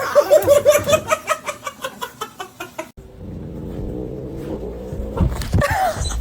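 A person laughing in quick repeated bursts for about three seconds, then an abrupt cut to a low steady rumble.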